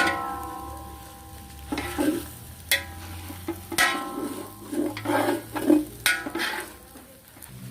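Chicken being stirred in a metal pot as it fries for a broth: a spoon knocks against the pot about five times, each knock leaving a brief metallic ring, with scraping and sizzling between.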